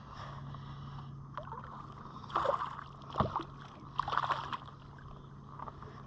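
Water splashing and sloshing at a kayak, with three short clusters of splashes and handling knocks over a steady low hum.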